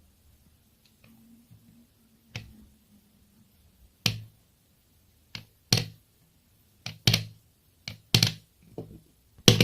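Small magnetic toy pieces clicking against each other and against a magnetic card as a rolled-up magnetic ball opens out into an animal: a string of sharp, irregular clicks, loudest near the end.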